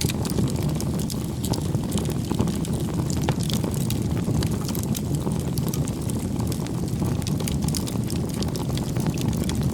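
Wood campfire burning: a steady low rush of flame with frequent small, sharp crackles and pops.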